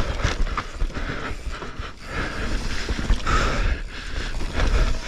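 Mountain bike riding fast down a dirt trail: tyres rolling over the ground with a steady rumble, the bike rattling and knocking over bumps, and wind buffeting the camera microphone.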